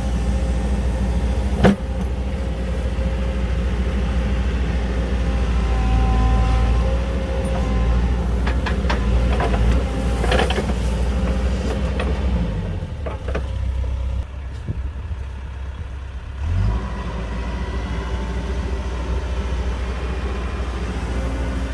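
Diesel engine of heavy earthmoving machinery running steadily, with a sharp knock about two seconds in and a run of metallic clanks midway. The engine drops lower and quieter for a few seconds, then picks up again.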